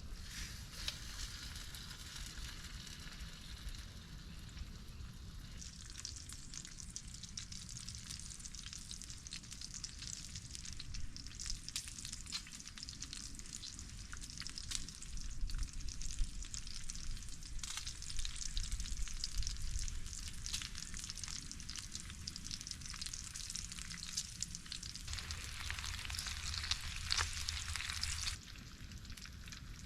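Food frying in a pan over campfire coals: a steady sizzle with small pops and crackles. It gets louder in steps, is loudest near the end, then cuts off sharply.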